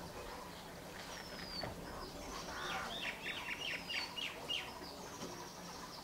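Birds calling: thin high whistles that slur downward, about a second in and again near four seconds, and a quick run of about seven short chirps from about two and a half to four and a half seconds in.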